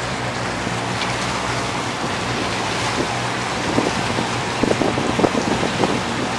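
Motorboat under way: its engine running steadily beneath wind on the microphone and water rushing past the hull. A few short knocks or slaps come in the second half.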